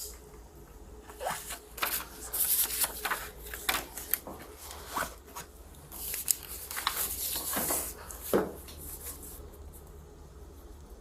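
Short rustling and scraping handling sounds come in quick clusters for about eight seconds, then die down.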